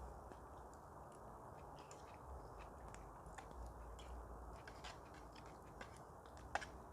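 Faint scattered clicks and ticks of a spoon against a camping pot while eating, over a quiet steady background hiss.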